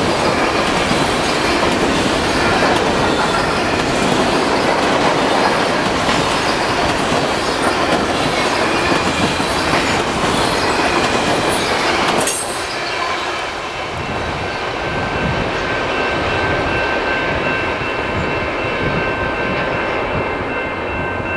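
CN mixed freight train's covered hopper cars rolling past close by, steel wheels running loudly on the rails. About twelve seconds in the last car goes by and the sound drops to the train's receding rumble, with thin steady high squealing tones from the wheels carrying on.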